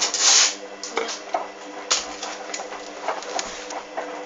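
Hoover washing machine running during a wash, a steady motor hum under irregular clicks and knocks, with a short hiss just at the start.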